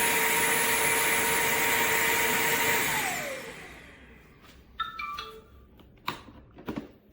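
Bissell CrossWave OmniForce wet-dry vacuum's motor running steadily with a whine, then switched off about three seconds in, the whine falling in pitch as it spins down. A few brief chirps and two sharp knocks follow near the end.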